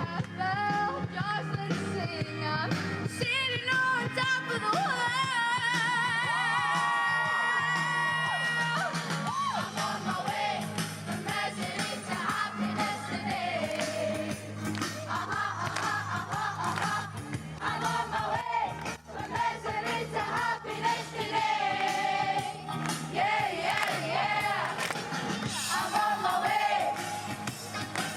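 Live music: voices singing with wavering vibrato over an instrumental accompaniment.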